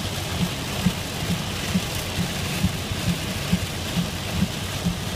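Heavy rain drumming on a moving car, heard from inside the cabin, with a regular low thump about twice a second.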